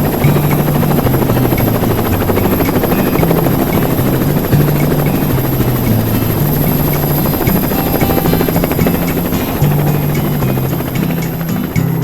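Helicopter noise, steady and loud, with music playing over it; a low bass line steps from note to note throughout.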